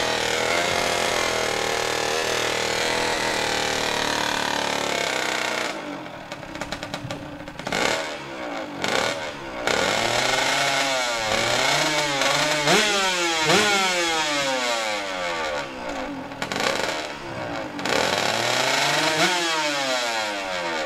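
Two-stroke drag-racing motorcycle engine blipping its throttle again and again at the start line, its pitch rising and falling with each rev, the sharp revs typical of a two-stroke held ready to launch. A steady drone fills the first few seconds before the revving starts.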